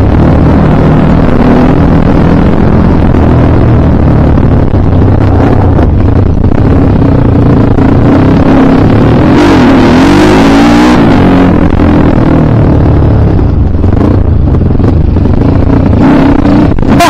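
Kawasaki KLX dirt bike's engine running hard under throttle on an enduro special test, loud and close, its pitch dipping and climbing again about ten seconds in as the throttle is rolled off and back on.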